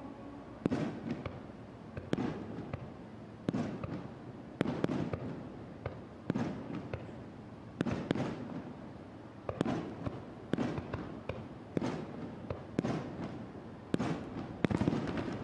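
Aerial firework shells bursting in quick succession, roughly one sharp boom a second, each trailing off in a rumble.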